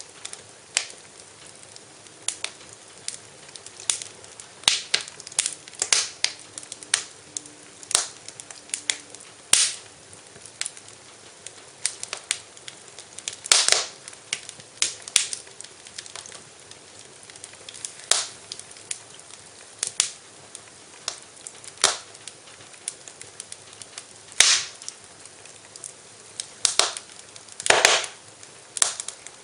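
Fire crackling in a fireplace, with irregular sharp pops every second or so and a few louder ones.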